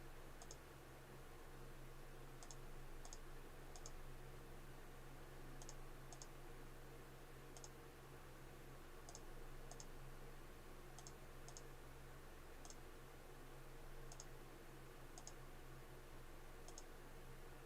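Faint computer mouse clicks, many in quick pairs, spaced irregularly over a low steady hum.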